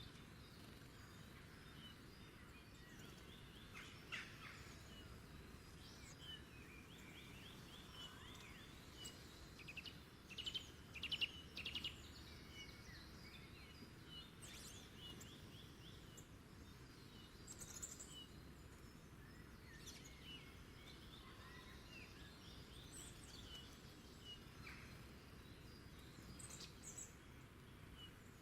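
Several wild birds singing and calling, faint, with short repeated trills and chirps and a cluster of louder calls about ten seconds in, over a steady low background hiss.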